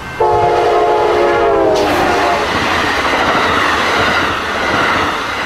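A locomotive's multi-chime air horn sounds a chord that drops in pitch as the train passes, followed by the loud rush and clatter of the train going by.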